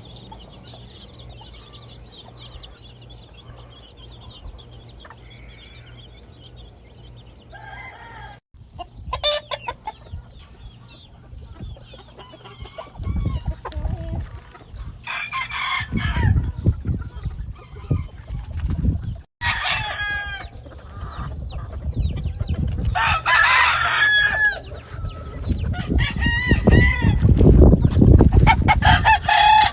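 Gamefowl roosters crowing again and again with chickens clucking, the calls starting about nine seconds in and coming more often toward the end. Beneath them is a low rumble that grows loudest near the end.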